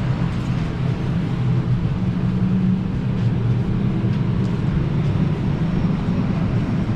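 Steady low hum inside the cabin of a parked Airbus A319, with a few faint clicks.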